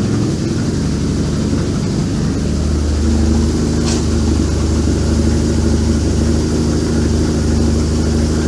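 A 1994 BMW R1100GS's boxer twin engine idling steadily, warming up for an oil change. There is a brief click about four seconds in.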